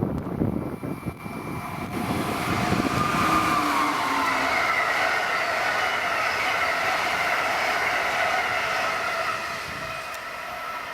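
Amtrak Northeast Regional passenger train passing at speed. Low thumping of wheels over the rails in the first couple of seconds gives way to a steady rush of wheel and rail noise with a high ringing whine over it, easing slightly near the end.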